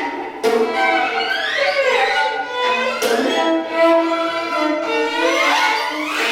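Contemporary music for violins and Bluetooth speakers: several bowed strings hold overlapping notes, with rising glides sweeping up twice and fresh entries about half a second and three seconds in.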